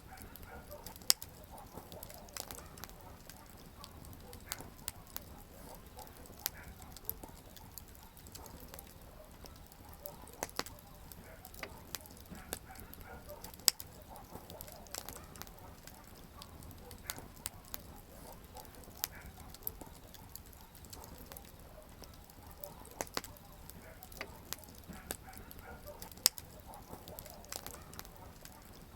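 Campfire of burning firewood crackling: frequent sharp pops and snaps over a low steady hiss, with a few much louder snaps about a second in, near the middle and near the end.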